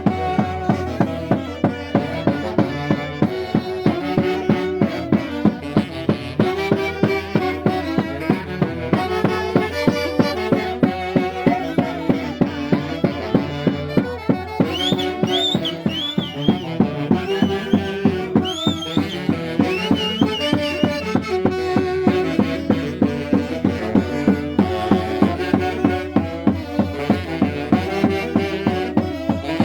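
Andean Santiago dance music played by a band, with melody instruments over a steady quick drumbeat. A high sliding melody line comes in about halfway through.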